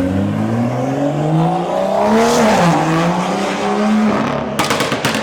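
Lamborghini engine accelerating hard, its pitch climbing, dipping briefly at an upshift about halfway through, then climbing again. Near the end a rapid cluster of sharp exhaust cracks and pops as the throttle is lifted.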